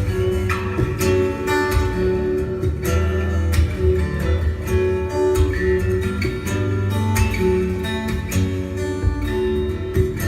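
Acoustic guitar playing an instrumental piece: a plucked melody of quick, sharply struck notes over ringing low bass notes.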